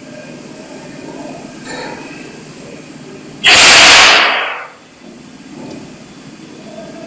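A loud hiss starting about halfway through, lasting about a second and then fading out, over a steady low background noise.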